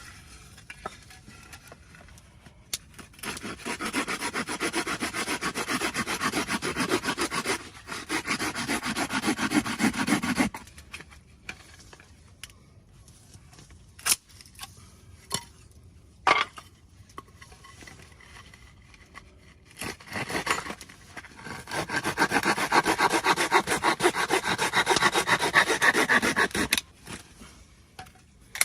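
Rapid rubbing or scraping strokes in two long stretches of several seconds each, with a few light clicks in the pause between them.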